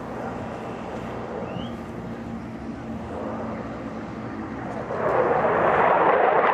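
F-16 fighter jet engine noise, steady and fairly distant at first, then jumping much louder about five seconds in.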